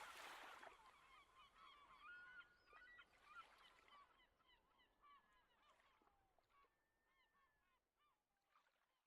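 A flock of birds calling in many short repeated calls, fading out gradually.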